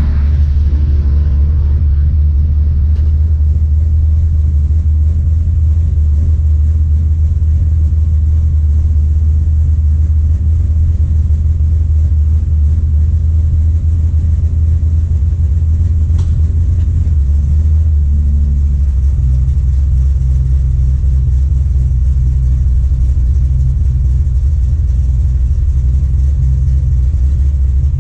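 A truck's engine running steadily, heard from inside the cab as a loud, deep rumble that neither rises nor falls.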